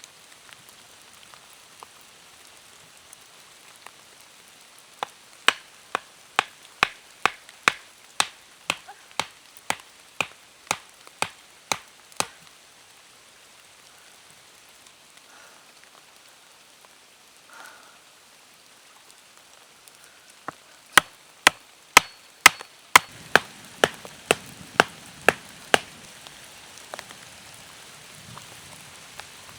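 Wood being chopped: sharp, even strikes about two a second, in two runs of a dozen or more with a pause between, over a steady hiss of rain.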